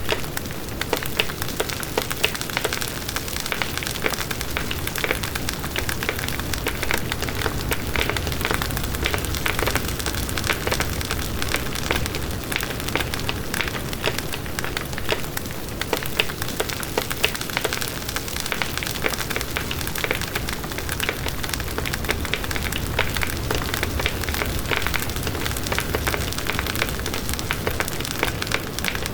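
Campfire burning steadily, wood crackling and popping with many small sharp snaps over a low rumble of flames.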